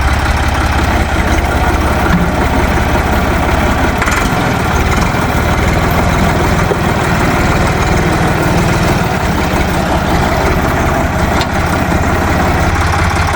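Ditch Witch 5010 trencher-backhoe's three-cylinder air-cooled Deutz diesel running while the machine is worked, the engine note shifting about four seconds in and again near nine seconds.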